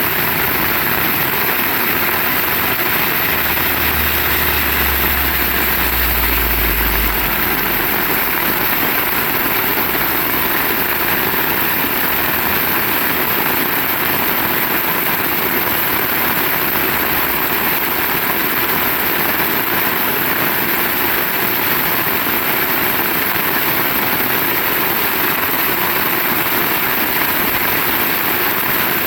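Heavy rain falling in a steady, even downpour. A brief low rumble comes in about four seconds in and fades a few seconds later.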